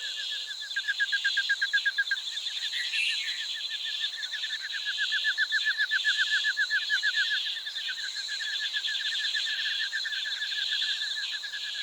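Wild animal calls: a long train of rapid pulsed notes at one steady pitch, with a steady high buzz above them, pausing briefly a couple of times.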